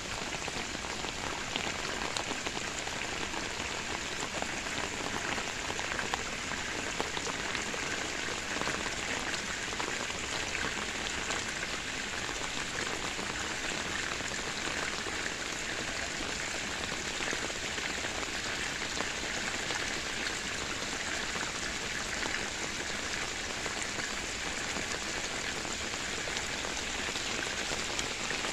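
Steady rain falling on grass and foliage, a dense hiss of countless small drop hits that holds an even level throughout.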